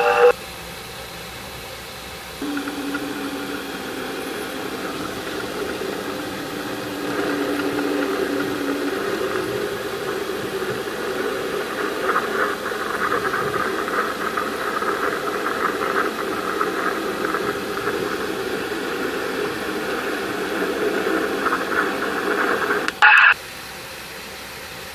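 Steady static-like hiss and rumble presented as the 'sound' of the trans-Neptunian object Varuna: a space-audio track, not a recorded acoustic sound. A low steady tone runs under it for several seconds, the noise grows denser, and a brief louder burst comes near the end.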